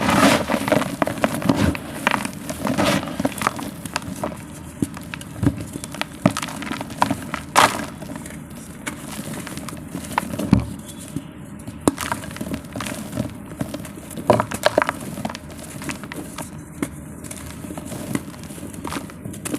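Dry multani mitti (Fuller's earth clay) being crumbled and crushed, with irregular sharp cracks and crunches.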